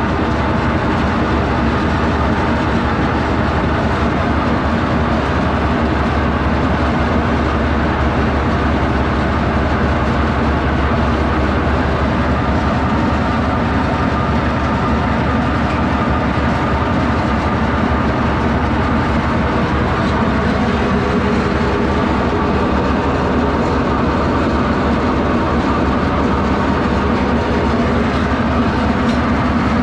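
Detroit diesel power unit of a hydraulic circle sawmill running steadily under throttle, a constant heavy engine drone.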